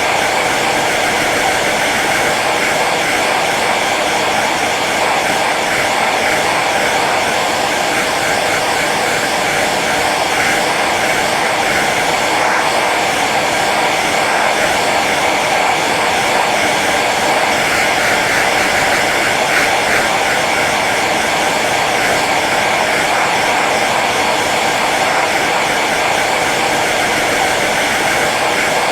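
Hair dryer running steadily on its low setting: an even rush of blown air over the hum of its motor.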